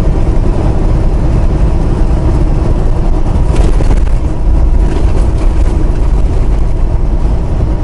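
Steady low rumble of a semi truck's engine and road noise, heard from inside the cab while driving.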